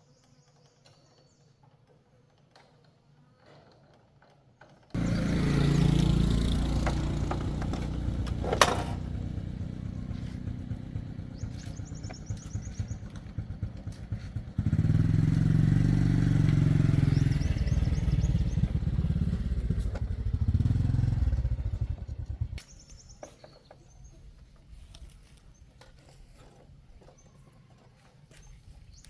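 A motorcycle engine starts abruptly about five seconds in and runs, dropping off a little. About ten seconds later it gets suddenly louder for about eight seconds, then cuts off. There is a sharp click early in the run.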